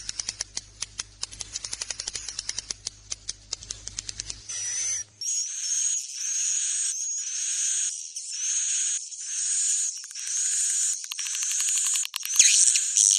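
Swiftlet roosting-call recording, a lure sound used to draw birds into a swiftlet house. A fast train of sharp clicks runs for about five seconds, then buzzy chirps rising in pitch repeat about once a second.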